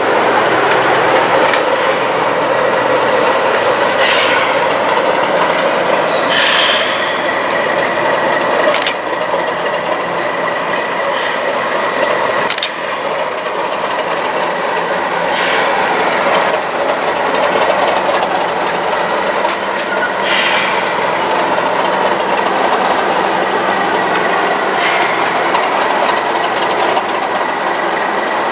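Train hauled by a Class 37 diesel locomotive running along the track: a steady, loud rumble of wheels and machinery, broken every few seconds by sharp clicks as the wheels cross rail joints.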